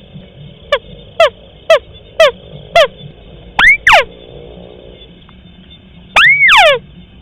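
Recorded call of a paddy-field crake (tikusan sawah), played as a bird-trapping lure. It is a series of five short, quick descending notes about half a second apart, then two longer falling notes, then one longer note near the end that rises and then falls.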